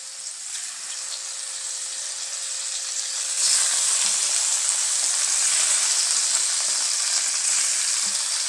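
Raw chicken pieces and sliced ginger frying in hot oil in a wok, a steady sizzle that gets louder about three and a half seconds in as more chicken goes into the pan.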